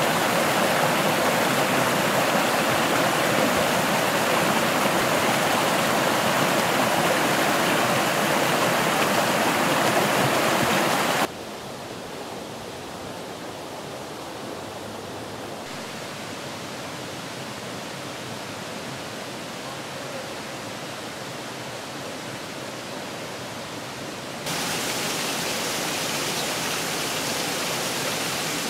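Rushing water of river cascades and waterfalls, a steady full noise. It drops abruptly to a softer rush about a third of the way in and jumps louder again a few seconds before the end.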